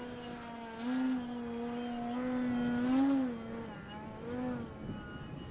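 Electric motor and propeller of an OMP Hobby Bushmaster RC aeroplane in flight, a steady buzzing tone whose pitch rises and dips with the throttle. It is loudest about three seconds in and fades out near the end.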